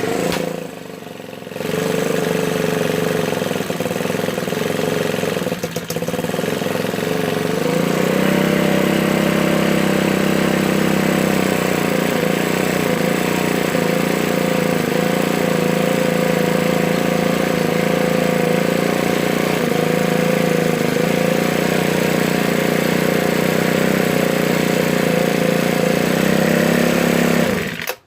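Ryobi 4-cycle leaf blower engine running. About eight seconds in it steps up in speed and loudness, holds steady, then cuts off sharply near the end. It is a blower that the owner says always idles rough and dies whenever it is given full gas.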